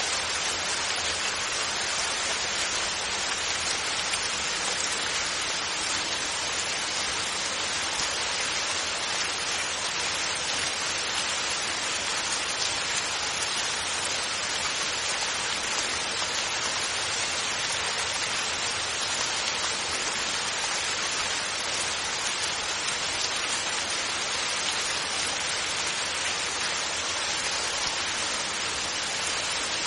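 Steady rainfall: an even hiss of rain with no thunder.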